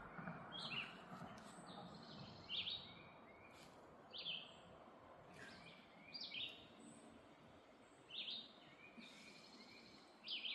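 A songbird repeating a short, high chirping call about every two seconds over faint background hiss.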